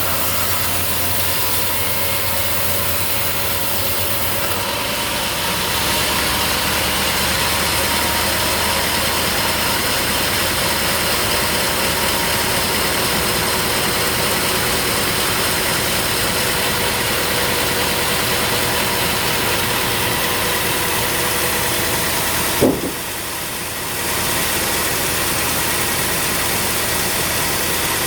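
An engine running steadily at idle, with no cutting heard. A single sharp knock comes near the end, and the running briefly drops for about a second before returning.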